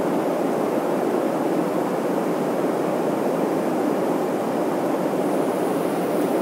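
Airliner cabin noise in flight: a steady, even rush that does not change.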